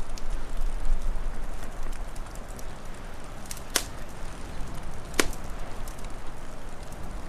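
Wood fire crackling, with small scattered snaps and two loud sharp pops a second and a half apart, around the middle, over a steady rushing noise.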